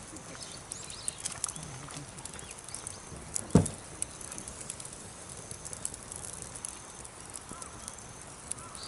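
Wood campfire crackling, with scattered sharp pops and clicks, as newly lit firewood catches. About three and a half seconds in there is a single much louder knock.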